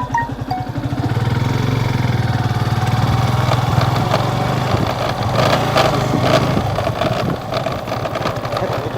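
Motorcycle engine running as the bike is ridden, a steady pulsing note that picks up about a second in and eases off a little near the end.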